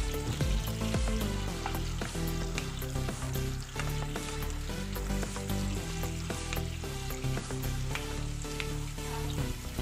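Chunks of pointed gourd (potol) and potato sizzling as they fry in hot oil in a pan, with the clicks and scrapes of a spatula stirring them.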